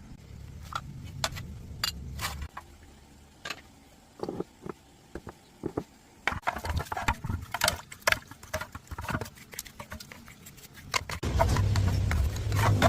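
Irregular clicks and knocks of tools and small metal parts being handled while working on a small Honda engine. A low rumble runs at the start, stops about two and a half seconds in, and returns louder near the end.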